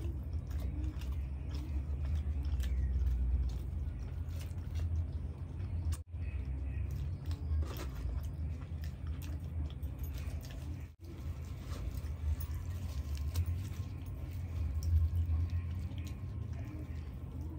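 Close-miked chewing and wet lip-smacking of people eating soft fried bhature bread with chickpea curry, full of small mouth clicks. The sound drops out briefly twice, about six and eleven seconds in.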